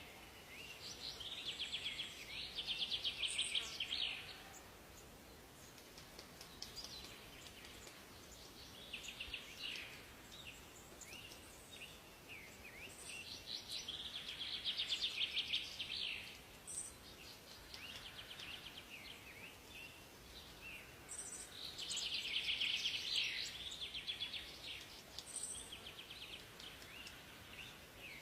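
Songbirds singing: three loud, fast trilled phrases spaced several seconds apart, with shorter chirps between them over a faint steady background hiss.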